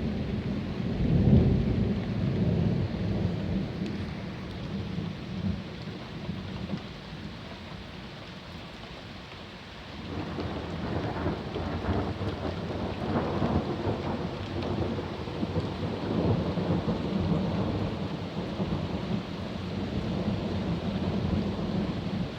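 Thunder rumbling over steady rain. The loudest peal comes about a second in and fades away, and a second long rolling rumble builds from about halfway and carries on.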